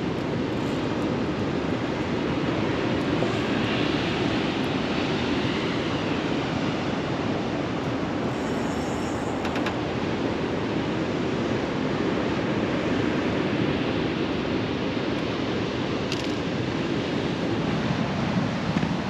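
Steady noise of surf breaking on a beach, mixed with wind.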